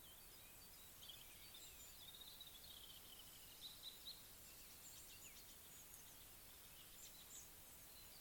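Faint bird chirps and warbling over a low background hiss.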